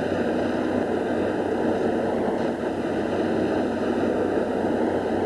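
Steady mechanical running noise of a Plasser rail track maintenance machine at work: an even hiss with a low hum underneath, no distinct knocks or changes.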